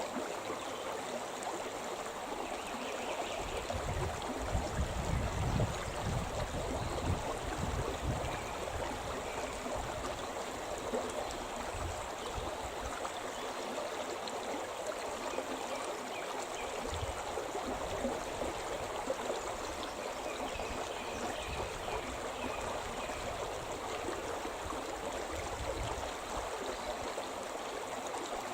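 Shimna River, a forest mountain river, rushing and splashing over its stony bed in a steady, even wash of water noise. A deep low rumble swells in and out, most strongly about four to eight seconds in.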